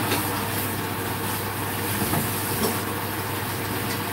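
Abalone frying in oil in a stainless pan, a steady sizzle, with a steady low hum underneath.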